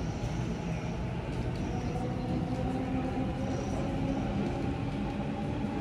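Sydney electric suburban train running, heard from on board: a steady low rumble with a few steady humming tones over it.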